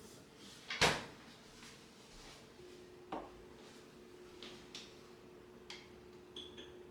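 A string of household knocks and clicks from things being handled, the loudest knock about a second in and a second near three seconds, then lighter ticks. A faint steady hum comes in about two and a half seconds in.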